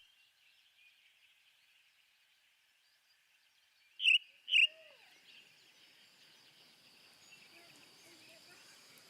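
Two short, sharp bird calls about half a second apart, after a few seconds of near quiet, over a faint outdoor background.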